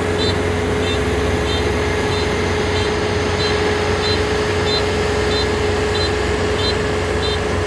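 Kubota Dynamax 470 combine harvester running steadily under load, a constant engine drone with a steady whine above it. A short, high electronic beep repeats from the machine about every two-thirds of a second.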